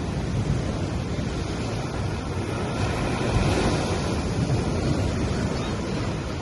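Sea waves washing onto a beach in a steady rush, swelling slightly a little over three seconds in.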